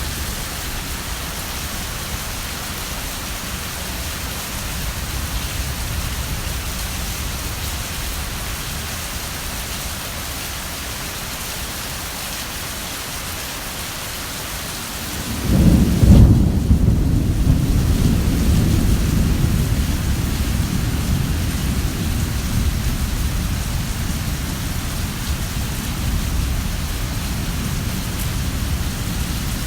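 Heavy rain falling steadily. About fifteen seconds in, a sudden loud, low thunder rumble breaks out and rolls on, fading slowly under the rain.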